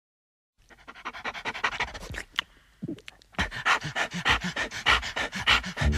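Dog panting rapidly, about four to five breaths a second, with a brief pause near the middle.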